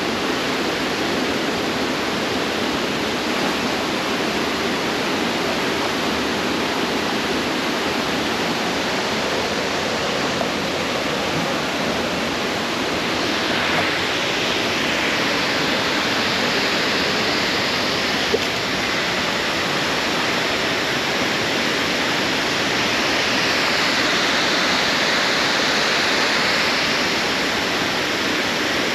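Steady, loud rush of fast-flowing river water tumbling over rocks.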